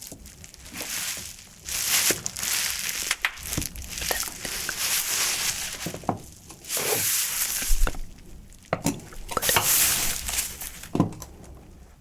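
Trash materials being crumpled and crushed, in irregular noisy bursts with crackles and a few sharp clicks.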